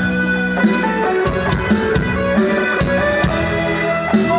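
Live band playing an instrumental passage: drums striking a steady beat under held melodic notes from keyboard or guitar.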